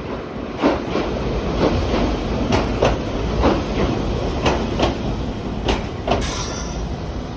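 Train running on jointed track: a steady low rumble with irregular clicks of the wheels crossing rail joints, and a brief hiss about six seconds in.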